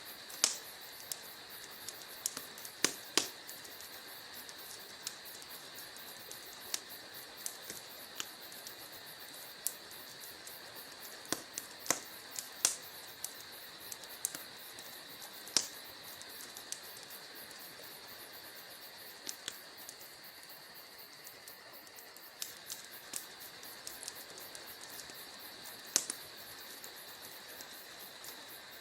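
Wood fire burning in a fireplace, crackling with irregular sharp pops and snaps over a steady soft hiss.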